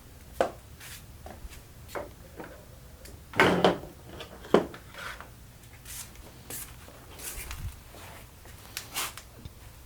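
Scattered light clicks and knocks of things being handled and set down, with a louder clatter about three and a half seconds in and a sharp knock about a second later.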